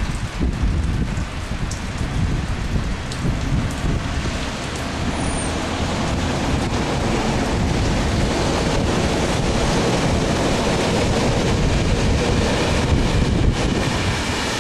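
Rain falling, with a low rumble underneath that becomes steadier and slightly louder about halfway through.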